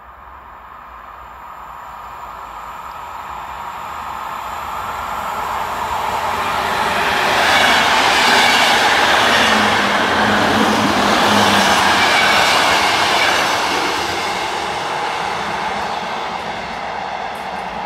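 Belgian electric passenger train running past close by on its rails: the rumble and rattle build steadily, are loudest about eight to thirteen seconds in as the carriages go by, then ease off.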